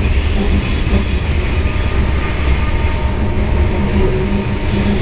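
Freight train cars, boxcars giving way to tank cars, rolling past close by in a steady, loud rumble of steel wheels on rail.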